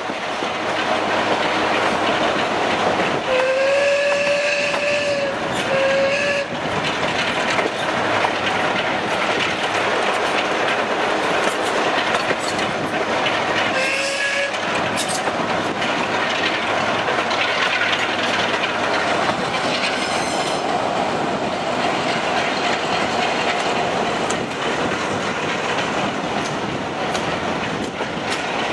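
Moving train heard from a coach window: a steady rumble with the clatter of wheels over rail joints. About three seconds in, a train horn sounds one long note and then a shorter one, and it gives a brief blast again about fourteen seconds in.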